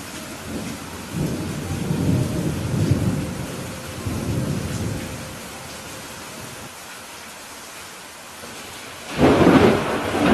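Steady rain falling during a thunderstorm, with a low rolling rumble of thunder that swells and fades in the first half. Near the end a sharper, louder thunderclap breaks in and dies away.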